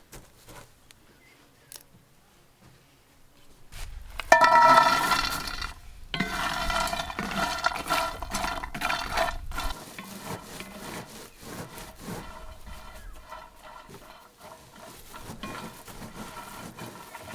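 An animal calling loudly in two long stretches, starting about four seconds in and breaking off near the middle, over a low rumble.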